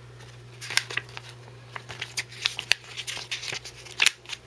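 Paper rustling and light clicks of booklets and packaging being handled and leafed through, in irregular bursts with a sharper cluster near the end, over a steady low hum.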